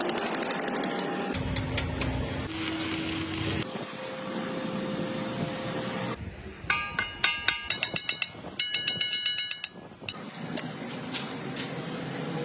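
Hammer blows on steel in two quick runs about halfway through, each strike ringing. Steady workshop machine noise runs underneath.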